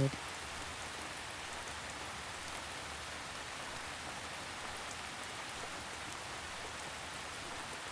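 Steady rain falling, an even hiss of droplets with no change in strength.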